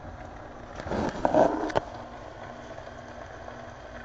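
Cooking noise at the stove: a short burst of clattering and sizzling about a second in, as ramen noodles go into a pan of onions frying in butter, over a steady low frying sizzle.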